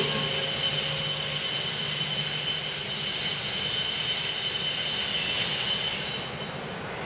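E5 series Shinkansen train drawing to a stop at the platform: a steady high-pitched whine over a broad rushing noise, which drops away suddenly about six seconds in as the train halts.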